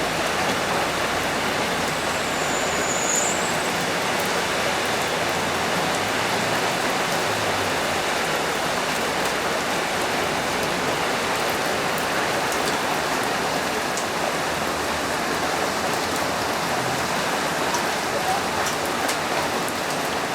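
Steady rain, a dense unbroken hiss of falling water. A brief high whistle sounds about two seconds in.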